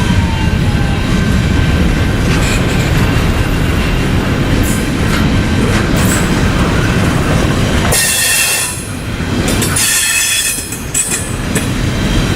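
Freight train cars rolling past on the rails with a steady low rumble, their wheels squealing high and shrill about two-thirds of the way through.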